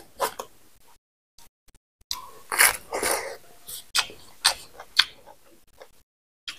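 Close-miked eating sounds: chewing with wet clicks and smacks of the mouth, coming as short separate strokes and a denser patch midway, with a brief dead gap about a second in.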